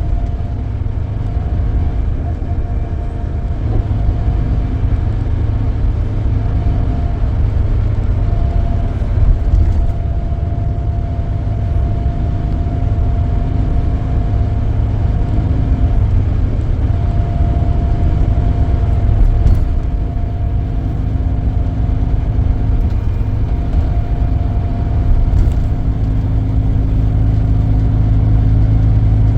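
Scania K440EB coach under way, heard from inside the cabin: a steady low rumble of engine and road noise, with a whine that drops out now and then.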